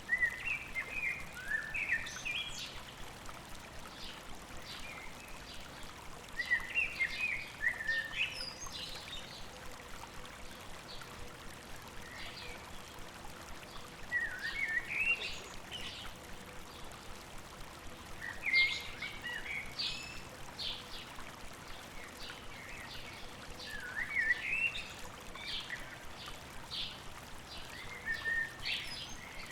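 A songbird repeats a short, quick, jumbled phrase about every six seconds, with scattered brief chirps in between, over the steady rush of flowing river water.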